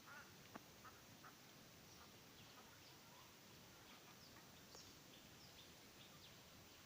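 Faint, scattered high chirps of small birds over background hiss, with a few soft clicks in the first second.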